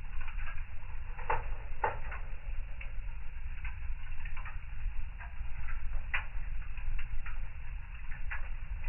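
Wood fire in a fireplace crackling: irregular sharp pops and snaps, a few louder ones about a second and two seconds in and near six seconds, over a low steady rumble of the burning.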